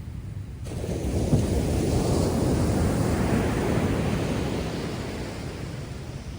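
Heavy post-typhoon surf: a wave surges in about half a second in, breaks and washes up the beach, then slowly fades, over a steady low rumble of the sea.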